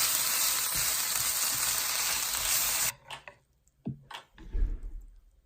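Food sizzling in a hot frying pan, a steady hiss that cuts off suddenly about three seconds in. A few light clicks and knocks follow, with a dull thump near the end.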